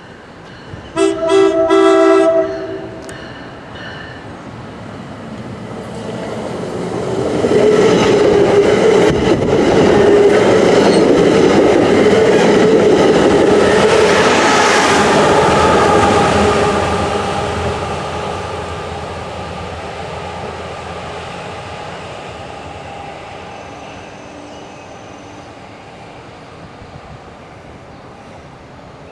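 A short chord horn blast from a MARC train led by a Siemens SC44 Charger diesel-electric locomotive about a second in, then the train approaching, passing at its loudest in the middle with engine and wheel noise, and fading away as it leaves.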